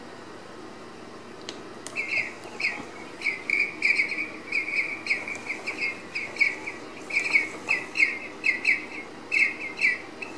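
A bird chirping in quick runs of short, high, repeated notes. The chirping starts about two seconds in and comes in bursts until near the end.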